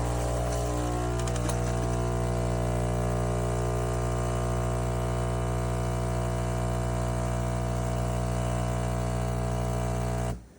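Philips Series 3300 espresso machine running with a loud, steady, even-pitched hum that cuts off abruptly near the end.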